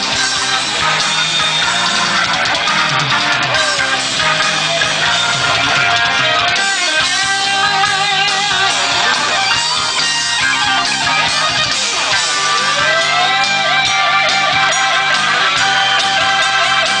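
Rock band playing an instrumental passage: an electric guitar solo with bent, rising notes and wavering vibrato on held notes over drums and bass.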